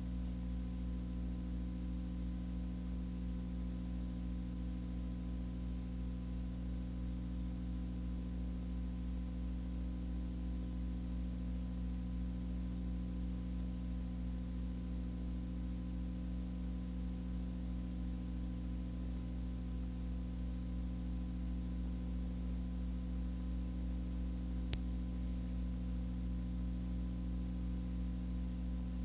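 Steady low hum with several constant tones over a light hiss, unchanging throughout, with one sharp click about 25 seconds in.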